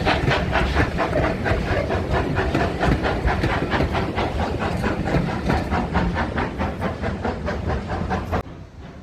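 Steam locomotive working hard, its exhaust beating in a rapid, even rhythm over a steady hiss of steam; the sound cuts off abruptly near the end.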